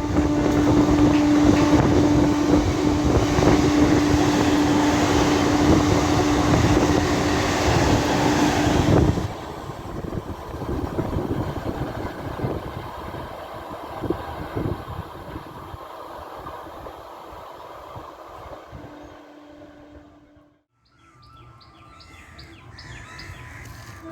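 An electric multiple-unit local train passes close by with a loud rail rumble and a steady hum. The noise cuts off suddenly about nine seconds in, leaving a quieter rumble that fades away. Near the end, birds chirp.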